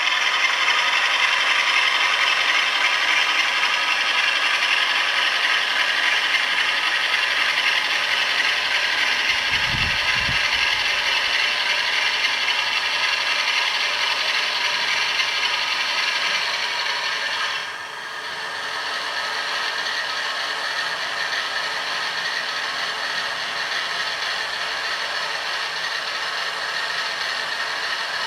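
Vi-Trains OO gauge Class 47 model diesel locomotive running with a TTS sound decoder: diesel engine sound played through the model's small speaker, mixed with mechanical rattle. A brief low thump comes about ten seconds in. About two-thirds of the way through, the sound drops suddenly to a lower, steadier level.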